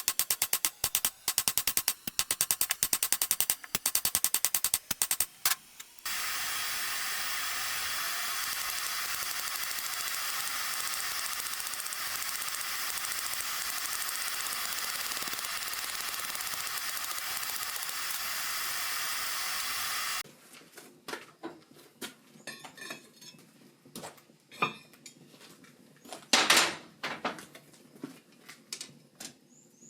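Hand hammer striking hot steel on an anvil in quick runs of blows while a point is drawn out. About six seconds in this switches abruptly to a steady hiss, and from about twenty seconds in only scattered light clicks and knocks remain.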